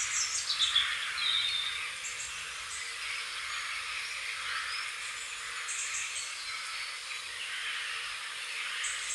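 Songbirds chirping and calling over a steady outdoor hiss. There is a flurry of quick falling chirps at the start, then short high chirps every few seconds.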